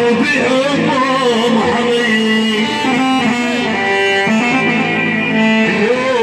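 Live band music: a plucked-string melody with a wavering lead line over sustained accompaniment.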